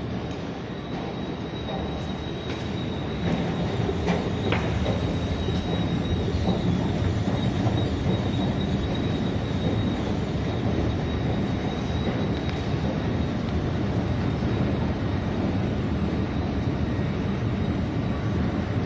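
Light-rail train running on the Edmonton LRT Capital Line, heard from inside the car: a steady rumble of wheels on rails with a thin, high whine running over it. The rumble grows louder about three seconds in, and a few clicks come just after.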